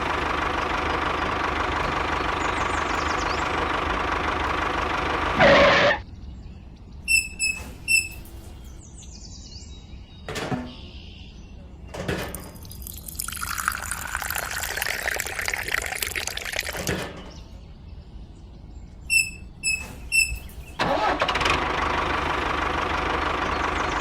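A small motor running with a steady hum that cuts off with a loud burst about six seconds in and comes back near the end. In between are quieter stretches with short high chirps, a few knocks and a brief rushing swell.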